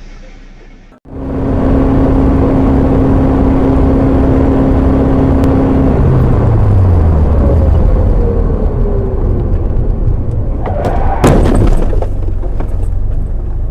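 Car on the road, loud and steady with a held tone, then a falling engine note. About ten seconds in comes a short cluster of sharp impacts, a crash with breaking sounds.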